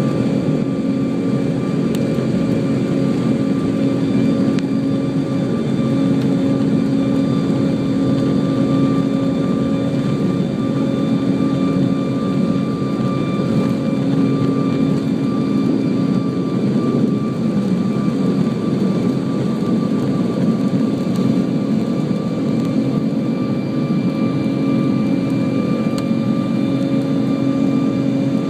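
Airbus A340-600's Rolls-Royce Trent 500 jet engines running steadily, with several steady whining tones over a constant rush, heard from inside the passenger cabin.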